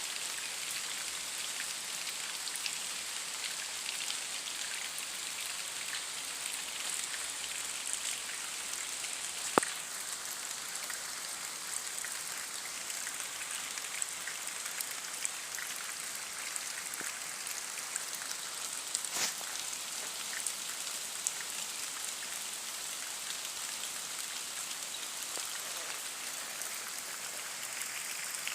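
Steady rain falling, an even hiss full of small drop ticks. A single sharp tick stands out about a third of the way through, and a fainter one about two thirds through.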